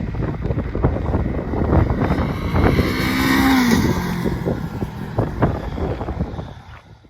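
Honda Rebel 500's parallel-twin engine running through its exhaust, revving up about three seconds in and dropping back, then fading out near the end.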